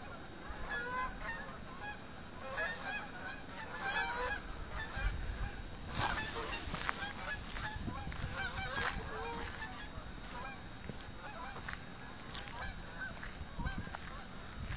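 A flock of geese flying overhead and honking, many overlapping calls from many birds at once that keep coming throughout.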